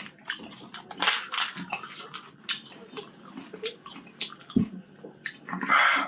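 A person eating pani puri close to the microphone: crunching of the crisp puri shells and wet chewing and slurping of the filling and water, in a series of short crackles with a few louder wet bursts.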